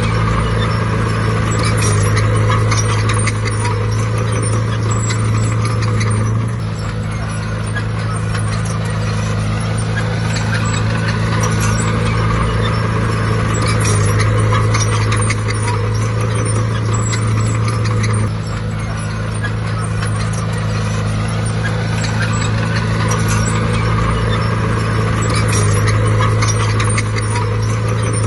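Heavy diesel engine of an earthmoving machine running steadily under load, its note dipping briefly about six seconds and again about eighteen seconds in.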